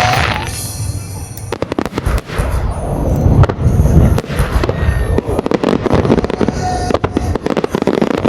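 Fireworks shells bursting in quick succession, a dense run of sharp cracks and booms over a deep rumble, with music playing under them.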